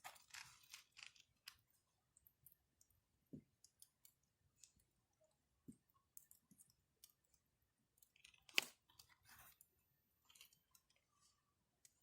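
Campfire of burning wood crackling faintly: scattered small snaps and pops, with one sharper pop a little past two-thirds of the way through.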